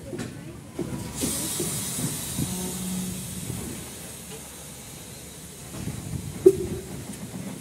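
Train rolling slowly along the track with a low, uneven rumble. About a second in, a loud hiss from the locomotive starts and fades away over the next several seconds. A single sharp knock near the end is the loudest sound.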